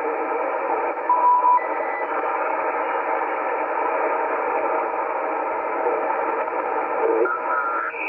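ICOM IC-718 HF transceiver's speaker hissing with band static on the 40-meter band between transmissions, a steady noise cut off above and below by the receiver's narrow passband. About a second in, a brief steady whistle-like tone sounds.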